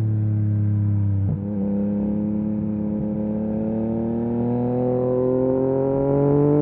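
Yamaha MT-09 SP's inline three-cylinder engine through a full Akrapovic race exhaust. The note sags slightly, breaks briefly just over a second in and comes back higher, as a gear change would, then climbs slowly and steadily as the bike accelerates.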